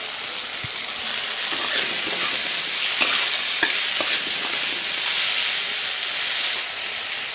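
Chopped onion stalks, onion and green chillies sizzling in hot oil in a metal wok as a spatula stirs them, with a few light taps and scrapes of the spatula on the pan.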